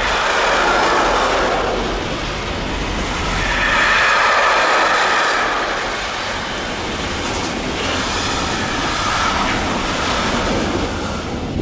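Container freight train rolling past, its wagon wheels making a loud, steady rush of noise on the rails that swells and eases every few seconds.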